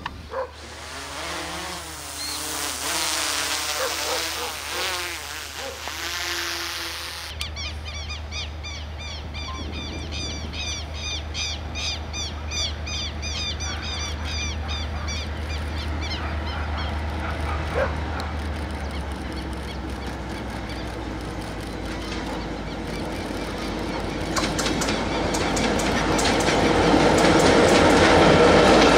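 Birds chirping in a rapid repeated pattern over a low steady hum, then an approaching diesel-hauled freight train whose rumble grows steadily louder through the last several seconds.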